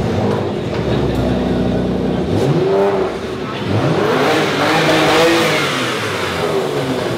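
Porsche Macan engine revved while the car stands still: a short rev about two and a half seconds in, then a longer, louder rev that climbs and falls away over the next few seconds.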